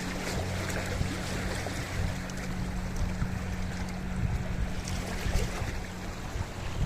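Sea waves washing over a rocky shore, with many small splashes and clicks of water among the rocks. A steady low hum runs underneath.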